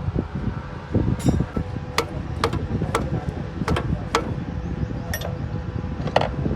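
Sharp metallic taps of a hand tool striking metal, three about half a second apart, then two more and a last one near the end, over a steady low hum.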